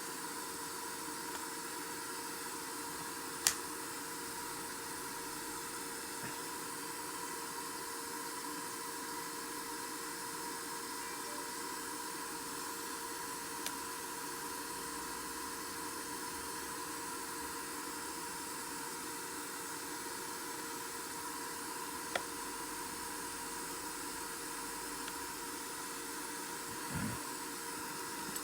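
Steady hiss with a faint constant hum tone, broken by a few isolated sharp clicks and one short low knock near the end.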